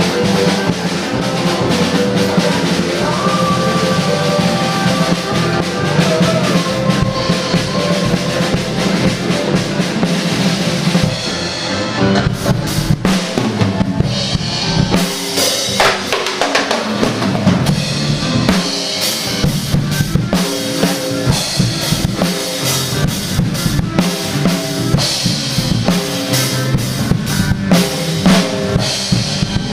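DW Collectors Series drum kit played along to a rock band backing track, with kick, snare and cymbals. About halfway through, the drumming becomes busier and more prominent, with many sharp hits over the band.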